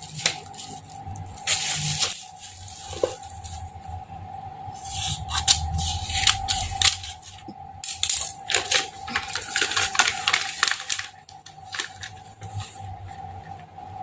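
Groceries being handled and put away: packaging rustling and crinkling, with irregular clinks and knocks as items are set down.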